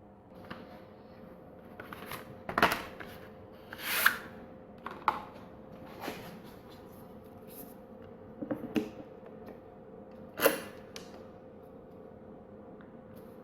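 Scattered clicks and light knocks of hand tools and engine parts being handled during engine assembly, with a few sharper clacks, over a faint steady hum.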